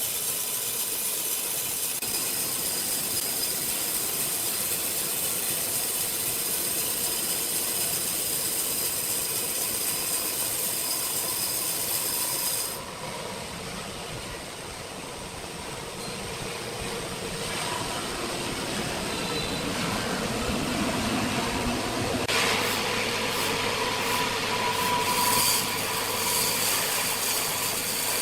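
Sawmill machinery running: a steady mechanical noise with a high whine and some squealing. It changes abruptly twice, about 13 s and 22 s in.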